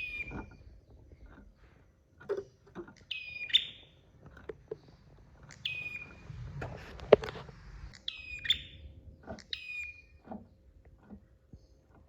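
Prenjak (prinia) calling: five short, high, falling chirps spaced a couple of seconds apart. Scattered low knocks and taps sound between them, the loudest about seven seconds in.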